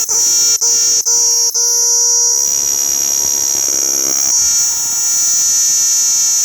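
Cicada calling: a loud, continuous high-pitched buzz, broken by three brief gaps in the first second and a half, its tone shifting for a couple of seconds in the middle.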